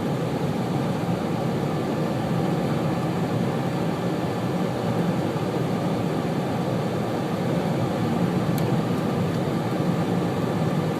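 Steady engine and tyre noise heard from inside a car driving on a cleared road.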